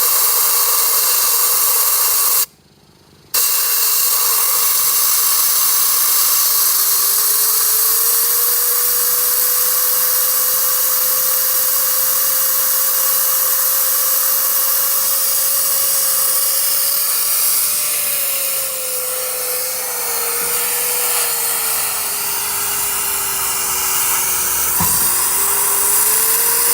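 Compressed air hissing loudly as it is blown through a removed Mercedes Sprinter T1N turbocharger to clean it out and spin its wheel, stopping briefly about two and a half seconds in. From about seven seconds a steady whistle rides on the hiss, wavering and dipping near the end.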